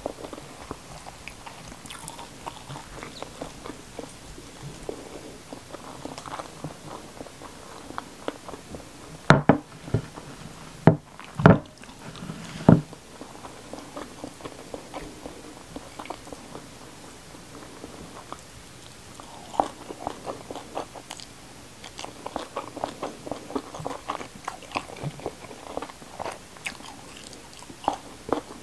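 Close-miked eating by hand: chewing and crunching of fried fish, rice and raw vegetables, with small wet mouth and finger clicks throughout. About a third of the way in come a few much louder crunching bites.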